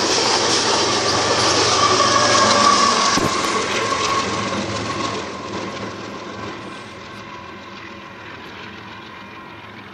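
Long freight train of refrigerated boxcars rolling past on the rails, with a thin steady squeal for a few seconds. As the trailing locomotive passes, about four seconds in, the sound begins to fade steadily as the train moves away.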